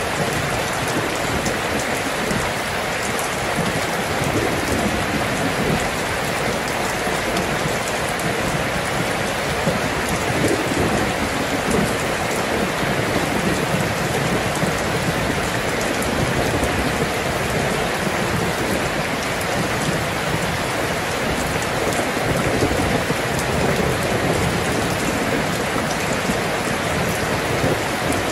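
Steady rain, a dense, even hiss of falling drops.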